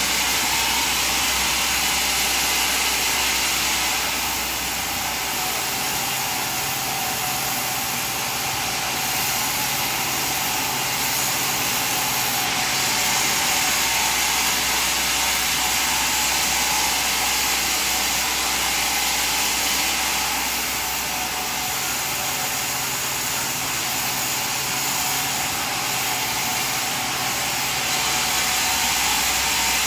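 Sawmill machine running and sawing through timber: a steady, hissing cutting noise over a low motor hum. It eases a little about four seconds and again about twenty seconds in, and picks back up later.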